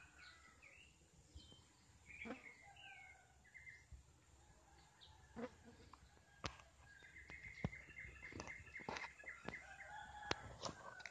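Faint bird calls: short chirps and gliding notes, then a quick run of repeated notes past the middle. Scattered sharp clicks come in over the second half.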